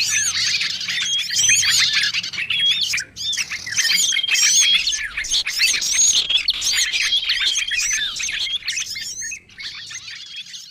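A dense, layered chorus of small songbirds in a bird-lure recording: overlapping chirps, squeaky rising and falling whistles and short rapid trills, all high-pitched. The chorus thins out and fades near the end.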